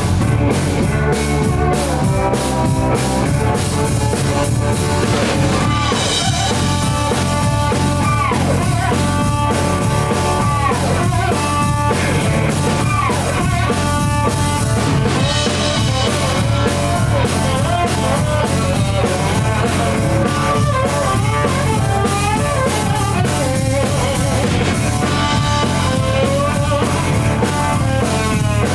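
Live blues-rock band: electric slide guitar playing gliding, bending lines over a steady drum kit and bass.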